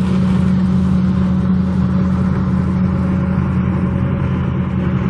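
An engine running steadily at constant speed, a low even hum that does not rise or fall.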